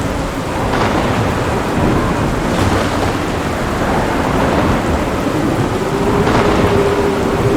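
Thunderstorm: steady heavy rain with thunder rumbling through it, swelling a few times.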